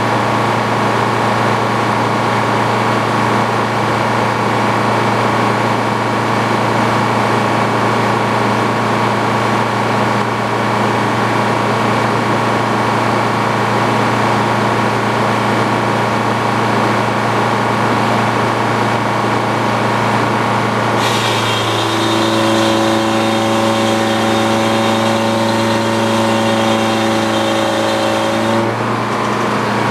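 Antique Frick sawmill running steadily, with its engine and circular saw turning. About two-thirds of the way through, a higher ringing whine joins in for about eight seconds and stops suddenly near the end.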